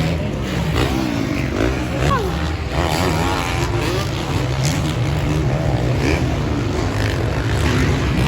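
Several 450cc motocross bikes racing on the track, their engines revving up and down through the gears with many rising and falling pitches overlapping.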